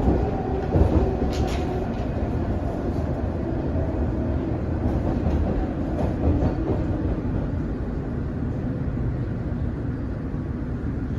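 Inside a London Underground S stock train running between stations: a steady rumble of wheels on track with faint motor tones, and a few sharp clicks in the first couple of seconds.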